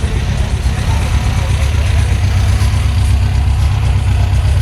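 A motor vehicle engine idling with a steady, deep rumble.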